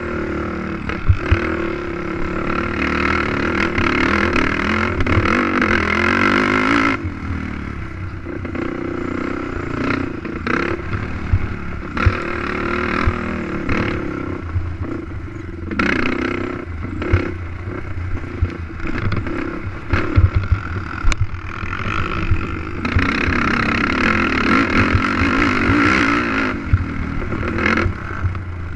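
Racing quad's engine heard from on board, running hard at high revs, easing off about seven seconds in and opening up again near the end. Frequent sharp knocks and rattles from the machine over rough ground.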